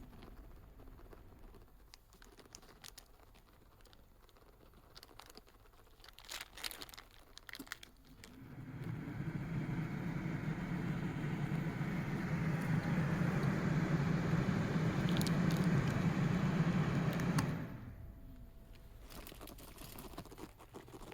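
Passenger-side ventilation fan running with a steady hum and whoosh, starting up about eight seconds in and cutting off about nine seconds later. A few light clicks come before it starts.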